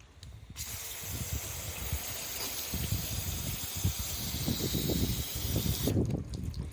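Water spraying from a hose nozzle in one steady hiss, switched on about half a second in and cut off suddenly near the end, as it is sprayed over the coated test surfaces. An irregular low rumble of wind on the microphone runs underneath.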